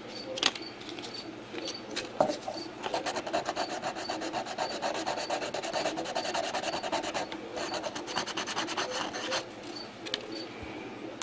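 Fine sandpaper rubbed by hand over a bird's eye maple knife handle in quick back-and-forth strokes. One run starts about three seconds in, and a second shorter run follows after a brief pause.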